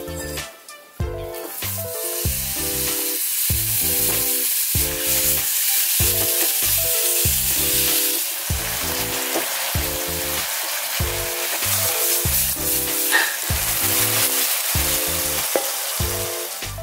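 Minced beef with sliced green chilies sizzling as it is stir-fried in a dry wok without oil, the sizzle starting about a second in. Background music with a steady beat plays underneath.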